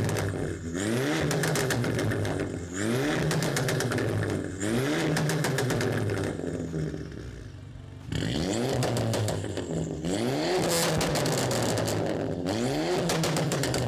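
2017 Volkswagen Jetta GLI's turbocharged 2.0-litre four-cylinder pulling through the revs again and again, with short dips between pulls like gear changes. Rapid crackles and pops from the exhaust come from its Stage 1 ECU tune's crackle map.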